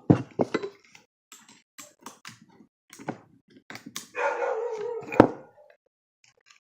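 A dog barking: one drawn-out bark about four seconds in, among scattered clicks and knocks.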